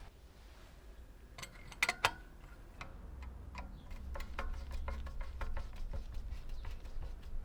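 Light mechanical clicks and ticks from a Felix M pinwheel arithmometer's mechanism being worked by hand, with two sharper, louder clicks about two seconds in.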